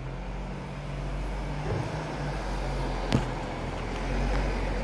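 A motor vehicle's engine running nearby, a steady low hum that grows louder towards the end, with a single sharp click about three seconds in.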